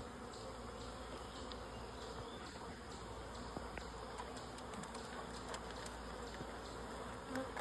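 Steady hum of a honey bee swarm, many bees buzzing and flying around close by, with a few faint clicks.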